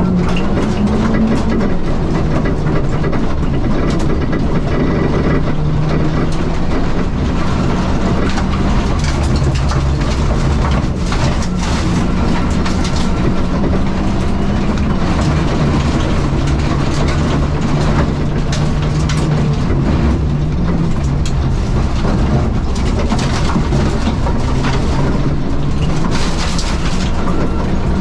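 Interior sound of a supercharged R53 Mini Cooper S's 1.6-litre four-cylinder engine driven hard, its note rising and falling as it goes up and down through the gears. Tyres run on loose dirt, with frequent clatter of stones and grit against the underbody.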